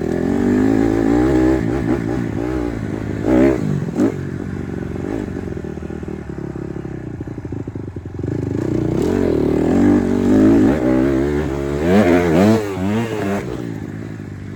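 Honda CRF150R dirt bike's single-cylinder four-stroke engine revving hard and unevenly in two spells as the rider pulls wheelies, settling lower in between. Two sharp knocks come about three and a half and four seconds in.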